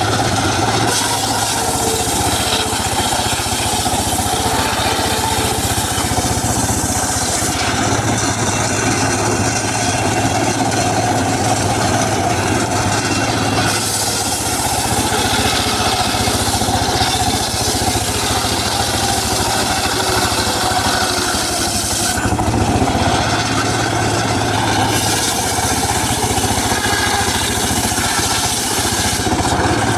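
Engine-driven mobile circular saw running steadily while sawing teak, its sound shifting in tone every several seconds.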